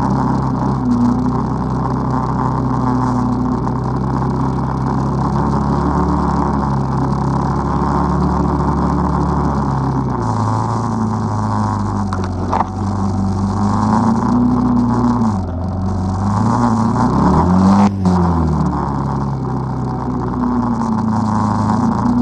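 ATV engine running under load, its pitch rising and falling with the throttle several times. A sharp knock about halfway through and another near the end, where the engine climbs highest and then drops.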